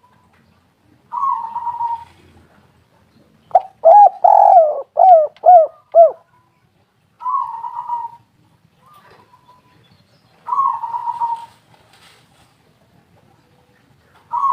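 Spotted doves cooing: short burry coos come every few seconds, with a louder phrase of about five arched coos in the middle.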